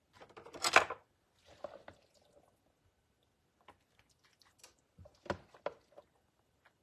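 Kitchen handling sounds while cabbage rolls are being made. A loud, short rustle comes just under a second in, followed by softer squishing and rustling, then a few light knocks about five seconds in.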